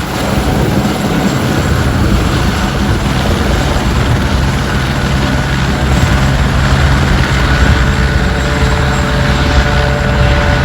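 Helicopter running with a loud, steady low rotor and engine hum, a fainter higher whine joining about eight seconds in.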